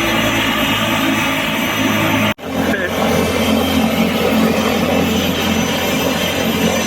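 Helicopter turbine and rotor running loud and steady, with a sudden brief dropout about two and a half seconds in where the recording cuts.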